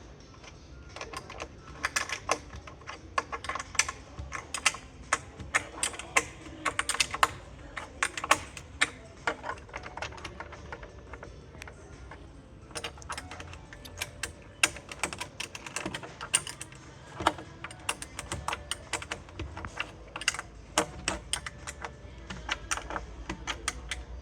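Allen key tightening a bolt into its nut: many quick, irregular metallic clicks and ticks as the key is turned and reset, with a short pause about halfway.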